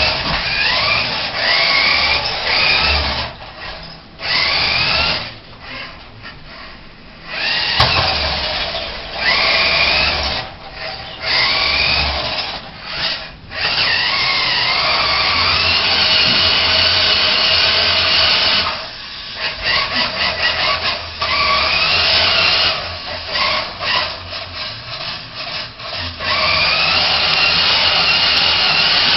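Remote control truck's motor whining in repeated throttle bursts, its pitch rising as it speeds up, with short drops where the throttle is let off.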